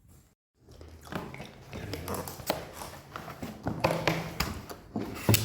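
Scattered light taps and knocks, with a few faint voice sounds, and one sharper knock near the end.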